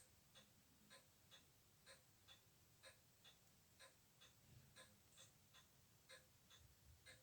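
Faint, even clockwork ticking, about two ticks a second.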